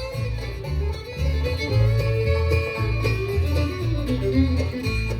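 Bluegrass band playing an instrumental intro: banjo, guitar and fiddle over an upright bass walking a steady two-beat bass line.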